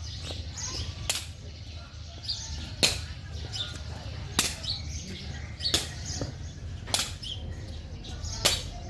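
A rally of sharp hits, one about every second and a half, as a ball or shuttle is struck back and forth, over a steady low rumble.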